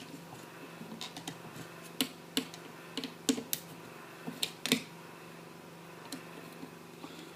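Irregular light clicks and taps of a screwdriver working on an old printer's screws and plastic parts, clustered in the middle of the stretch, over a faint steady hum.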